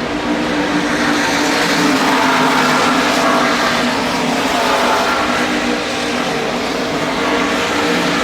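NASCAR Craftsman Truck Series race trucks' V8 engines running at speed on the track: a steady, loud engine drone.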